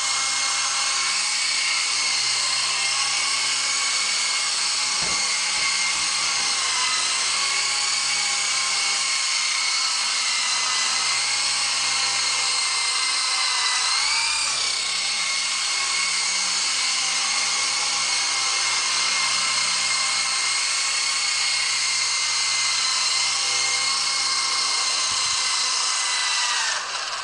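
Megatech Housefly 2 indoor RC helicopter's small electric motors and rotors whining steadily in flight. The pitch rises briefly about halfway through, and near the end the motors spin down and the whine fades away.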